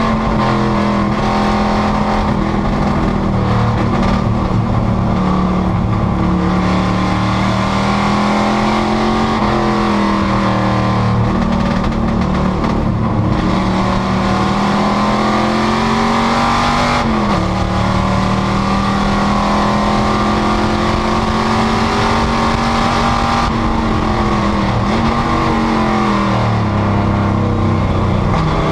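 Panoz GTS race car's engine running hard at racing speed, a loud, steady, high-revving engine note. Its pitch dips sharply and climbs back about two-thirds of the way through, then dips and falls away again near the end, as it lifts or shifts.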